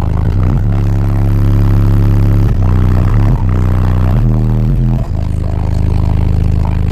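Car audio system playing a bass-heavy rap track very loud: long, deep bass notes that change pitch every second or so over a steady beat.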